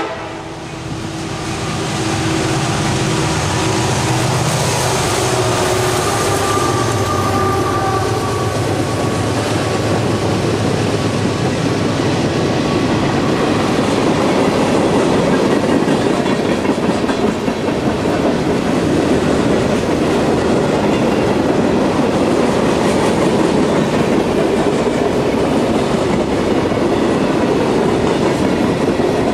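Freight train passing close by: the lead EMD SD70MAC and trailing GE AC4400CW diesel-electric locomotives run past with a low engine drone for the first ten seconds or so. Then a long string of loaded freight cars rolls by with steady wheel clatter and rail noise.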